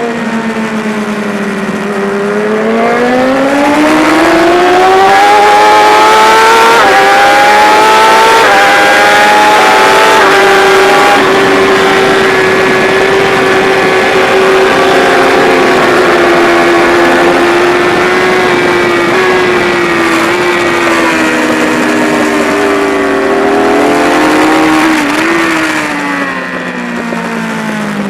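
BMW S1000RR inline-four superbike engine at racing speed, heard from on board. The revs dip at the start, climb for several seconds, stay high and steady for a long stretch, then fall away near the end as the bike slows.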